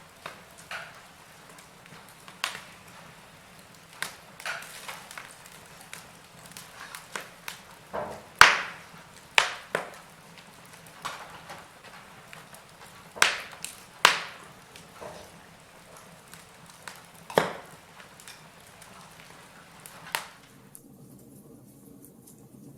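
Wood fire in a fireplace crackling, with irregular sharp pops of burning logs over a faint steady hiss. A few pops stand out louder than the rest, and the popping stops about two seconds before the end.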